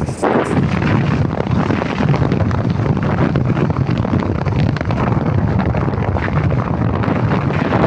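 Strong wind buffeting the microphone, a loud, continuous rumbling rush, with a few sharp crackles right at the start.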